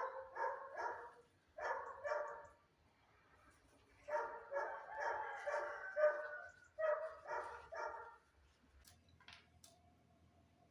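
A dog barking in four runs of quick barks, stopping about eight seconds in.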